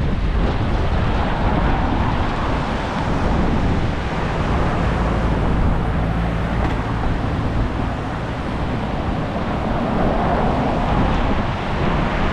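Storm wind blowing hard over the microphone, a steady rushing noise with a heavy low rumble; a faint low hum sits under it in the middle.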